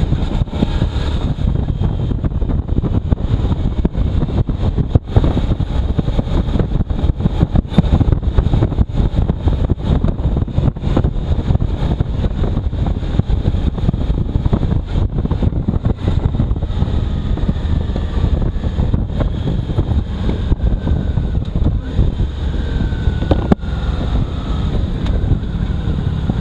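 Heavy wind buffeting on the microphone of a moving motorcycle, a dense low rumble with constant gusty thumps, with the motorcycle's engine faint beneath it.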